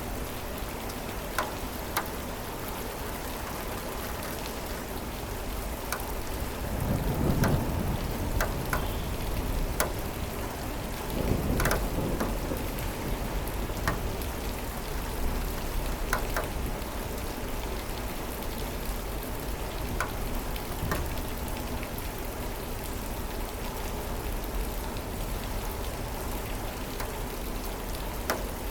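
Steady rain with scattered sharper drops, and two low rumbles of thunder a few seconds apart, the first about a quarter of the way in.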